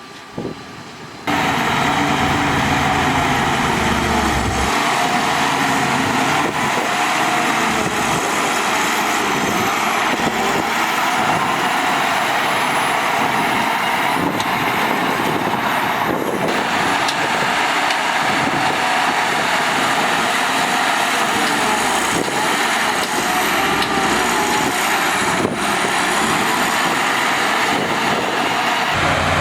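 Heavy earthmoving machinery with a large diesel engine running loud and steady. It comes in suddenly about a second in.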